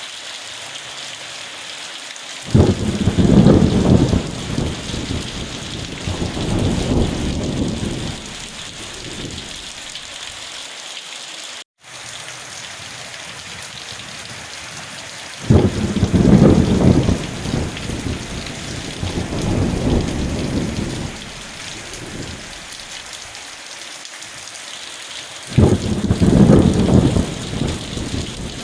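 Steady heavy rain hiss with three claps of thunder, each starting suddenly and rumbling on for several seconds. The first comes a couple of seconds in, the second about halfway, the third near the end. The sound cuts out for an instant about twelve seconds in.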